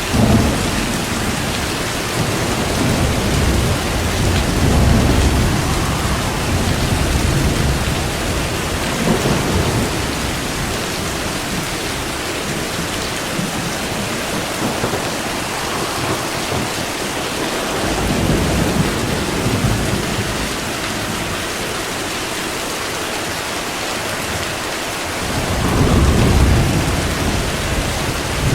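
Steady heavy rain with thunder rolling several times over it: a sudden clap right at the start, low rumbles swelling and fading through the middle, and the loudest roll near the end.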